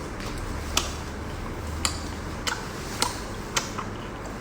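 Close-up chewing of tough whelk meat: a series of sharp wet clicks from the mouth, about one every half second to second.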